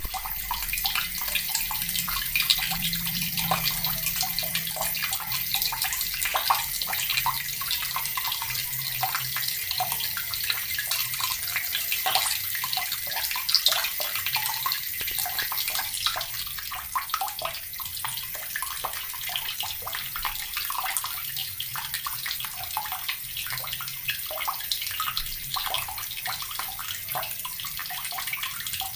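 Water from a tap pouring steadily into a bucket, a continuous splashing stream with many small irregular splashes.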